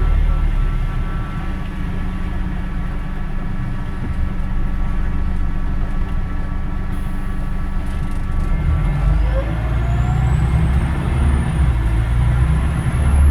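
Scania Omnidekka double-decker bus running along, heard from on board: a steady low engine drone with a rising whine from about nine seconds in.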